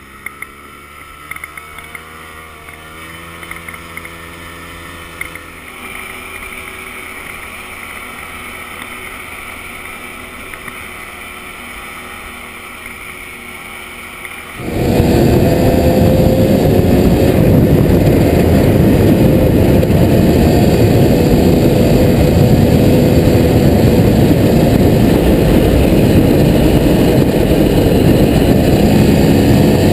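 Off-road vehicle engine running, its pitch rising and falling. About halfway through it turns suddenly much louder and noisier, as from riding hard at speed.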